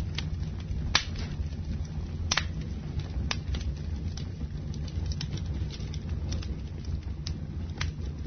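Wood campfire burning: a steady low rumble with irregular sharp crackles and pops, the strongest about a second in, near two and a half seconds, and near the end.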